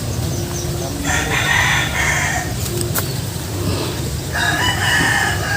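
A rooster crowing twice, each crow drawn out, the second falling in pitch at its end, over a steady low background rumble.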